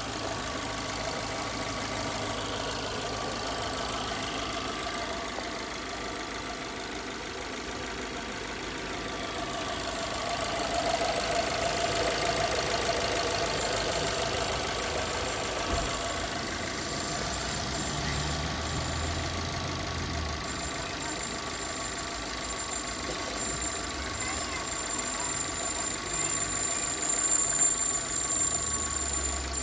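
Fiat 500's 1.4-litre 16-valve four-cylinder petrol engine (169A3000) running steadily. It gets somewhat louder about ten seconds in and rises and falls unevenly near the end.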